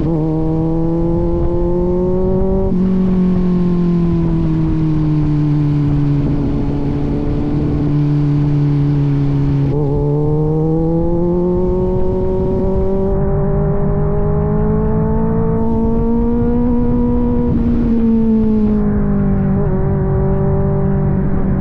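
Kawasaki Z900's inline-four engine through an aftermarket AR exhaust, running steadily under way. Its pitch climbs slowly for several seconds and eases back down twice, over a steady rush of noise.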